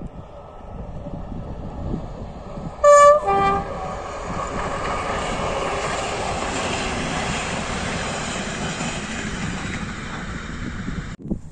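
A passenger train passes and its locomotive sounds the horn about three seconds in: a short high note, then a lower one. The steady rumble and clatter of the coaches rolling by follows, and it cuts off suddenly near the end.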